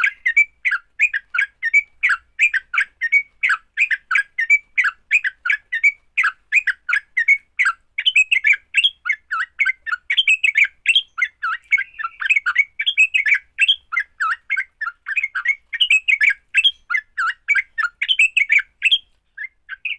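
Yellow-vented bulbul (trucukan) giving its fighting call: a fast, unbroken chatter of short bubbly notes, about five a second, with a brief break near the end.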